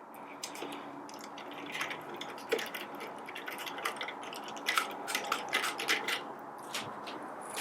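Light clicks and scrapes of a screwdriver backing small Phillips screws out of the underside of a Forte coffee grinder, with the screws and tool handled against the plastic case. The clicks come thickest a little past the middle.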